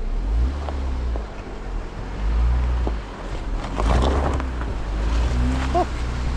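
Jeep engine running at low speed and surging as it crawls over a rough, washed-out dirt road, with a burst of scraping and rattling noise about four seconds in.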